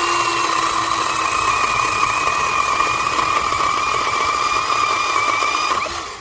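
Yovot 12-inch battery electric chainsaw spinning up and running at full speed with a steady high whine, its chain freshly retightened after coming loose. It winds down near the end.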